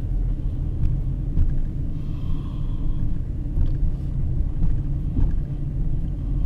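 Steady low rumble of a vehicle driving slowly, heard from inside the cab, with a few faint clicks and knocks over it.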